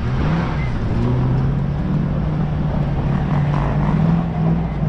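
Engine of a small motor vehicle running loudly at a fairly steady speed, its pitch rising and falling slightly.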